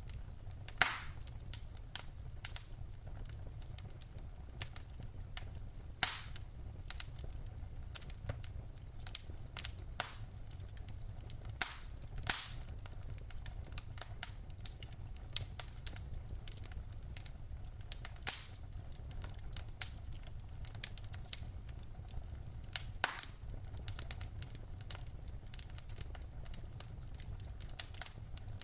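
Wood fire crackling in a fireplace: irregular sharp pops and snaps from the burning logs, a few louder ones standing out, over a steady low rumble of the flames.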